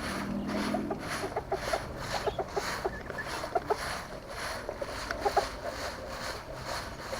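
Chickens clucking softly, in short scattered notes, over a steady hiss that pulses about twice a second.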